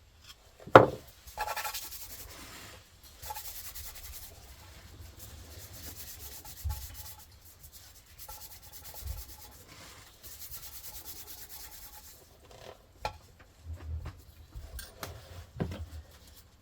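Hand rubbing on a hard surface in several strokes of a second or two each, with a sharp knock about a second in and a few lighter knocks near the end.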